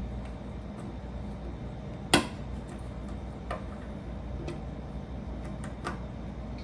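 Small plastic Lego pieces clicking and tapping as they are handled and fitted together: one sharp click about two seconds in, then a few fainter clicks, over a low steady hum.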